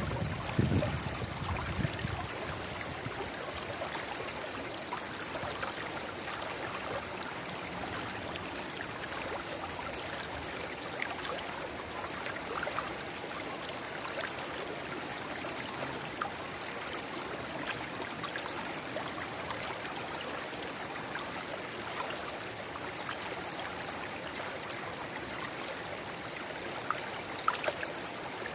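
River water babbling steadily where a narrow spring-fed rivulet trickles into the main stream. Low wind rumble on the microphone in the first couple of seconds.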